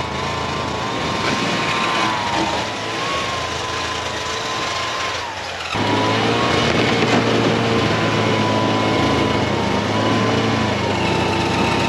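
Snowmobile engine running under way with a wavering whine. About six seconds in it switches abruptly to a louder, deeper and steadier engine note.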